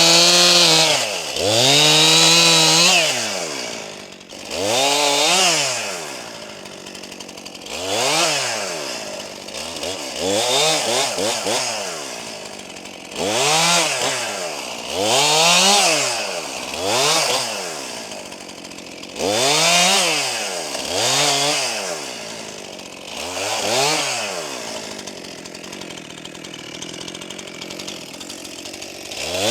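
Brand-new Stihl MS261 C two-stroke chainsaw, on its first run and still being broken in, revving up to high speed and dropping back toward idle about a dozen times, with a quieter stretch of lower running near the end.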